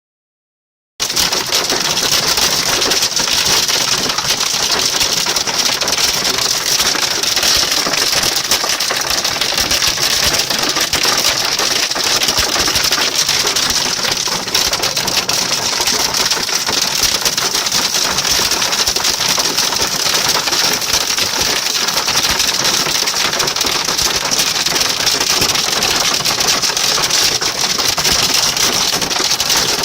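Hailstones pelting down in a dense, steady clatter of countless small impacts, starting abruptly about a second in.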